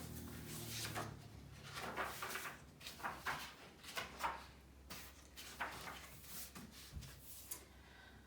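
Faint paper rustling and soft knocks from a picture book being handled and its page turned, in a series of short, uneven swishes about a second apart.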